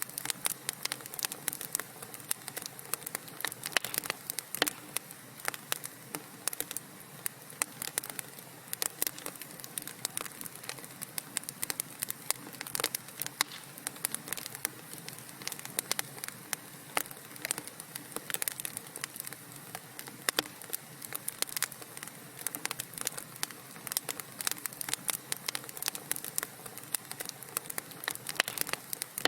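Wood fire crackling in a fireplace: dense, irregular sharp pops and snaps over a soft steady hiss of burning.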